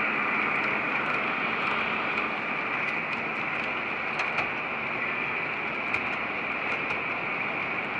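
O scale model train running on the layout: a steady whirring rolling sound with a few faint clicks scattered through it.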